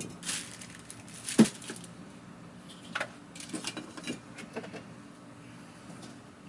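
Irregular clicks and knocks of vacuum cleaner parts being handled and set down, with the sharpest knock about a second and a half in and a quick cluster of lighter clicks in the middle.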